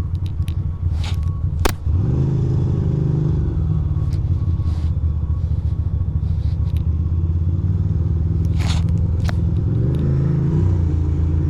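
Ducati Monster 620's air-cooled L-twin engine running at low riding speed, its pitch rising about two seconds in as the bike pulls away, then holding steady and changing again near the end. A few sharp clicks come early on and again around the three-quarter mark.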